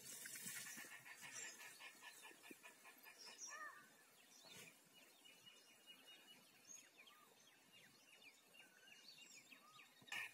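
Faint outdoor ambience with scattered bird chirps and calls, and a quick run of small ticks in the first couple of seconds.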